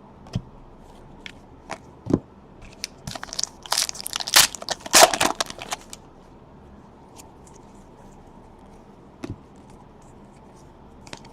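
A trading-card pack wrapper is torn open and crinkled: a burst of crackling from about three to six seconds in, with a few light taps and clicks before and after.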